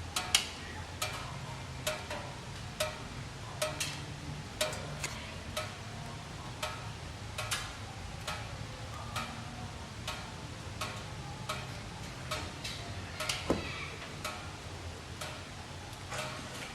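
Supercharged 6.2-litre V8 of a 2011 Corvette ZR1 idling as a steady low hum, with irregular sharp ticks about once or twice a second.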